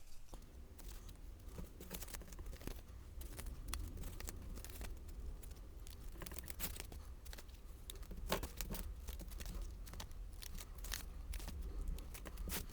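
Cardstock being handled and its corners trimmed: scattered small snips, clicks and paper rustles, over a faint steady low hum.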